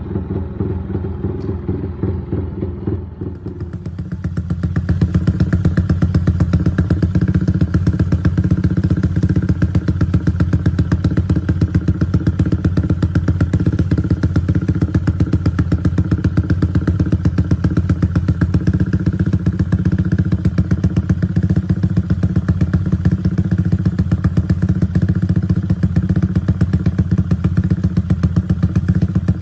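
Yamaha Y15ZR's single-cylinder four-stroke engine running through a modified exhaust tuned for the 'sound kuda' note, firing in a fast, even pulse at steady revs. About four seconds in it turns louder and fuller, then holds steady.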